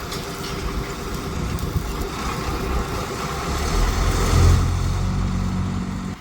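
Road traffic noise, with a motor vehicle engine running close by and growing louder about four seconds in.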